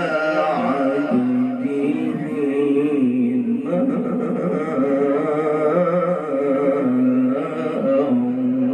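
A man's voice in melodic Quran recitation (tilawah), drawing out a long ornamented phrase with a wavering, gliding pitch.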